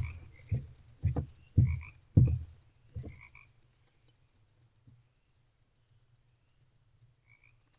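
Frogs croaking in short two-part calls, repeated every second or so. Over the first three seconds come about six loud, dull low thumps, roughly two a second, then the thumps stop and only the frog calls and a low hum remain.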